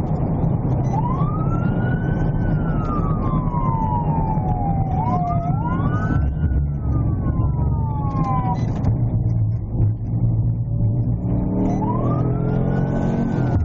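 Police cruiser siren wailing in slow rise-and-fall sweeps of about four seconds each, over the steady rumble of the moving cruiser's engine and road noise. The siren drops out for about three seconds near the end, then starts another sweep.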